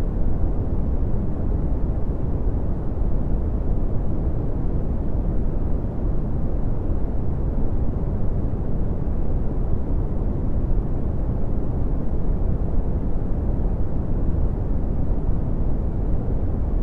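Red (Brownian) noise: a steady, deep rumbling hiss, strongest in the low end and falling away toward the highs, without change.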